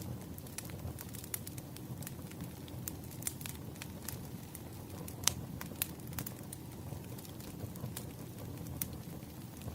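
Wood fire burning: a steady low rumble of flames with irregular sharp pops and crackles of firewood, one louder pop about five seconds in.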